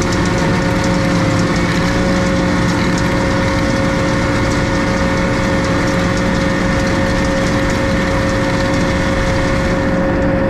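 Tractor engine running at steady revs, a constant hum of engine tones with a light, fast, regular ticking over it.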